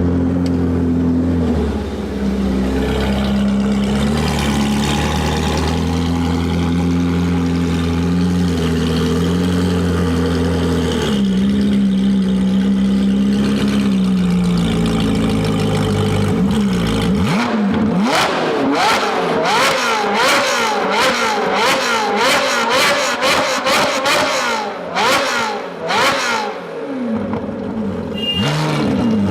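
Performance car engine and loud aftermarket exhaust: a steady drone for about the first half, then repeated quick revs rising in pitch, with sharp crackles from about two-thirds of the way in.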